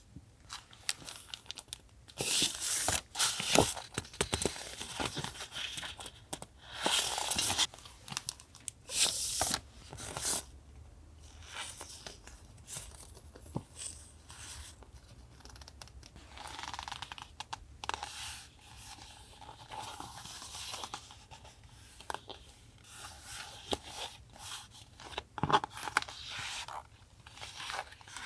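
Paper being torn and crinkled by hand: several loud tearing bursts of about a second each in the first ten seconds, then quieter rustling and handling.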